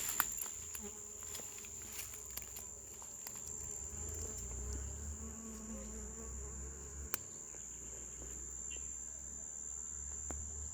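Bees buzzing at bamburral flowers, the buzz wavering as they fly, over a steady high-pitched insect tone, with a few short clicks.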